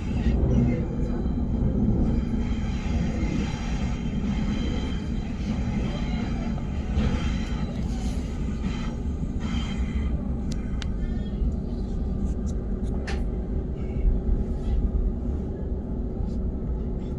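Suburban electric train heard from inside the carriage as it runs along the track: a steady low rumble of wheels and running gear, with scattered sharp clicks and knocks in the second half and a steady hum coming in after about eleven seconds.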